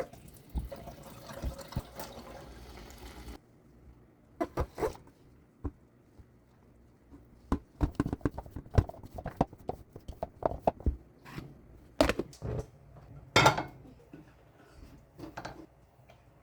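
Water running for about three and a half seconds, cutting off sharply, then a string of short knocks and clatters, like dishes and utensils being handled.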